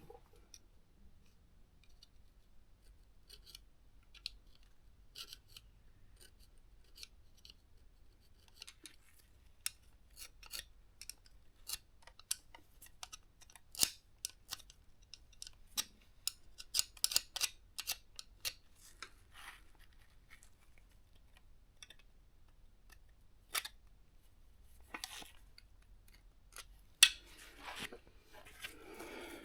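Small metal tool scraping rust off a toothed timing-belt pulley on a motorcycle engine to uncover the timing mark: faint, irregular short scrapes and small metallic ticks, with a busier patch of scraping and one sharper click near the end.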